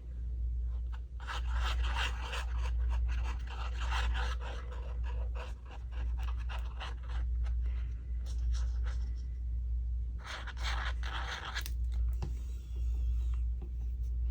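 Scraping and rubbing on paper as glue is spread and rubbed in over the back of a card, in two scratchy stretches: one from about a second in lasting four seconds, one shorter near ten seconds. A steady low hum runs underneath.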